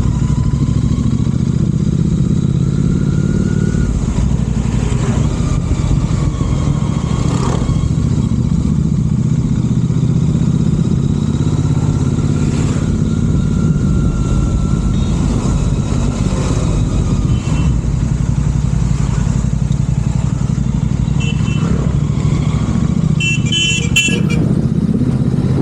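Royal Enfield Continental GT 650 parallel-twin engine running steadily through Red Rooster aftermarket exhausts while riding, a constant low-pitched engine note. A horn sounds briefly near the end.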